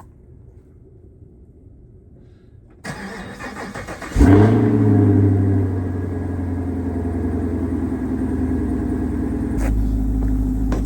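Car engine cold-started: the starter cranks for about a second and a half, the engine catches with a brief rev flare, then settles into a steady idle.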